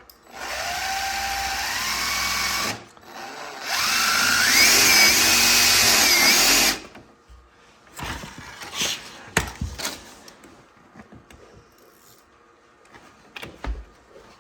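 Power drill run in two bursts, its motor whine rising in pitch as it speeds up; the second burst is louder and lasts about three seconds. A few light knocks and clicks follow.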